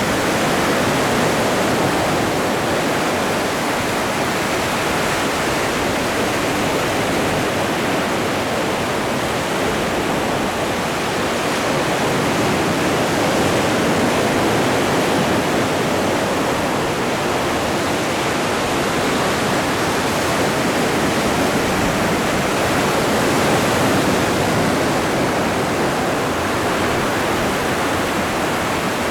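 Atlantic Ocean surf washing in a continuous rush, swelling slightly in the middle and again near the end.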